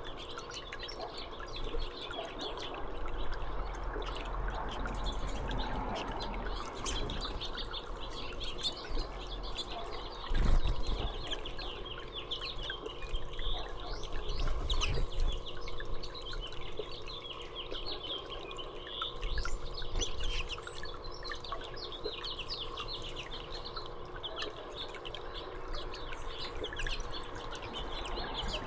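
Small songbirds chirping and tweeting in many short, high calls throughout, over a steady trickle of water and a faint steady hum. A low bump about ten seconds in is the loudest moment.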